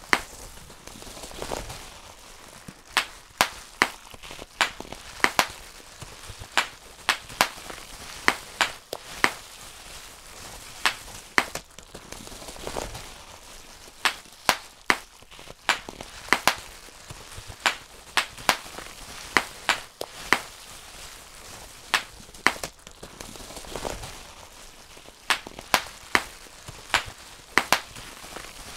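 Bubble wrap being popped by hand: sharp irregular pops, often two or three in quick succession, with the soft crinkle of the plastic sheet between them.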